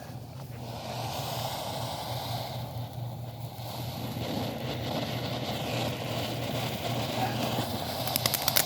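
Consumer fountain firework spraying with a steady hissing rush that grows louder, with crackling breaking in near the end.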